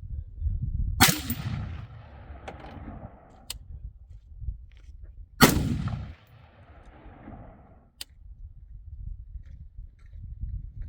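Two rifle shots about four and a half seconds apart, each sharp crack followed by a long echo that dies away over about two seconds.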